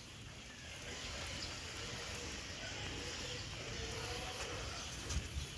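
Steady rain falling with no wind.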